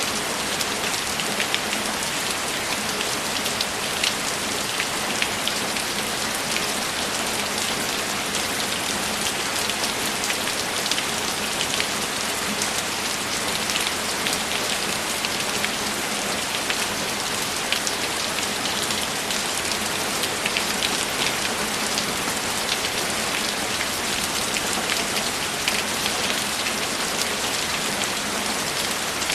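Steady rain falling, an even hiss with many individual drops ticking sharply on top of it.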